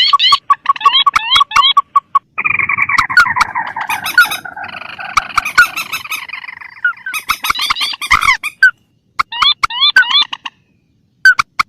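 Recorded calls of wetland rails (swamphen and crake), used as a bird-trapping lure. Quick repeated rising notes and clicks are broken by a dense, slowly falling chorus of overlapping calls in the middle, then separate calls again with a short pause near the end.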